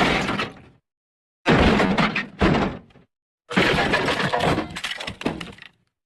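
A crash sound effect of smashing and shattering debris, the stock 'elephant smash' effect, heard three times with dead silence between, the last burst the longest.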